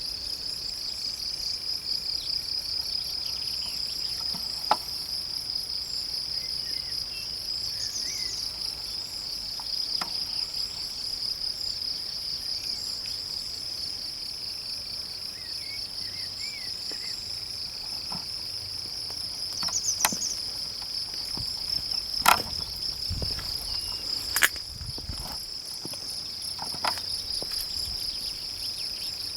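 Crickets singing in a continuous, rapidly pulsing high trill, with faint bird chirps. A few sharp clicks stand out, the loudest two about 22 and 24 seconds in.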